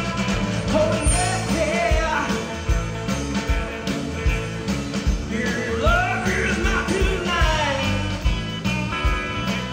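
Live rock band playing an original song: drums with a steady kick beat under electric guitar and bass, with gliding melodic lines over the top.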